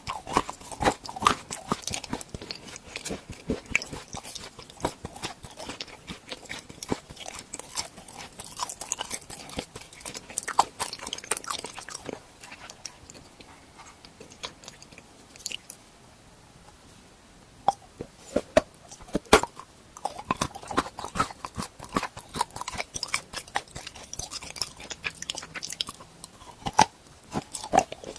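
Close-miked eating of tool-shaped novelty sweets: repeated bites and crunchy chewing with sharp crackles, pausing briefly about halfway through before the crunching resumes.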